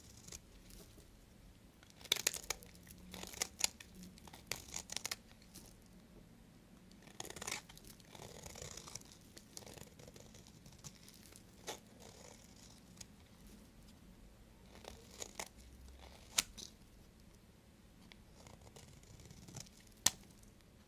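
A knife cutting into bars of soap: crisp scraping and crackling strokes in irregular clusters, with a few single sharp snaps.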